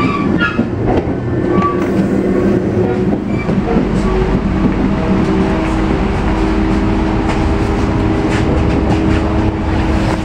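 Inside an ICMm electric trainset: a steady low rumble with a humming tone that sets in about four seconds in, and scattered clicks and knocks.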